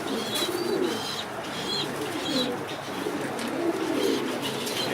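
Domestic pigeons cooing, with several short high chirps over the cooing in the first half.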